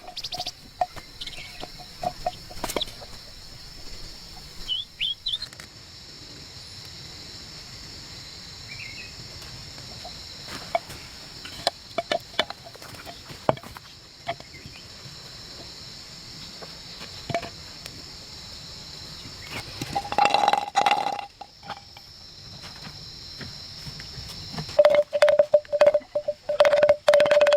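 Forest ambience: a steady high insect drone with scattered clicks and rustles, and bird calls. A louder run of rapidly repeated short calls comes near the end.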